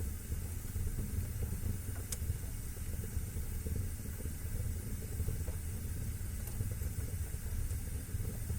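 Fire burning in a fireplace with a steady low rumble and hiss, scattered soft crackles, and one sharper pop about two seconds in.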